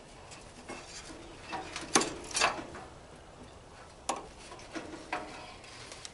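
Metal clicks and clinks from a tool working on a barbecue grill's gas line. There are a few sharp clicks, the loudest pair about two seconds in and single ones later.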